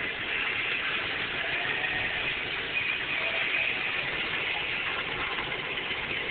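Air conditioner running: a steady rush of blowing air.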